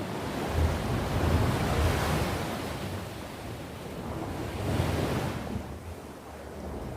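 Sea waves surging and washing onto the shore, swelling twice: about one to two seconds in, and again near five seconds.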